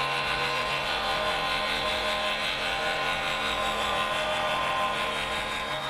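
Impact wrench running steadily, hammering the screw of a ball joint press to push a new ball joint into its seat.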